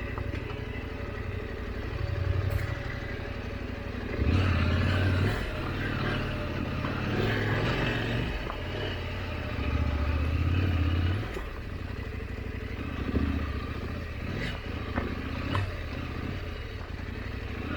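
890 adventure motorcycle's twin-cylinder engine running at low trail speed, with throttle surges about four seconds in and again around ten seconds. Scattered clicks and knocks come through over loose rock.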